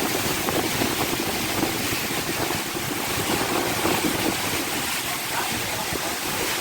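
Strong storm wind blowing steadily, a dense rushing noise that is strong enough to rip roof tiles off houses.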